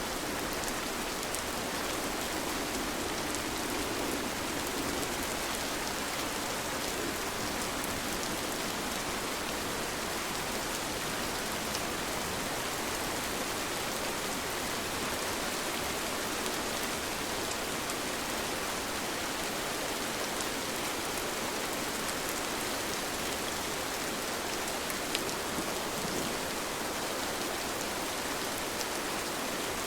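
Steady rain falling, a continuous even hiss with fine scattered drop patter and an occasional louder drip.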